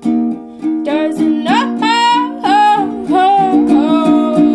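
A song: ukulele strummed steadily, with a voice singing a long, sliding phrase in the middle.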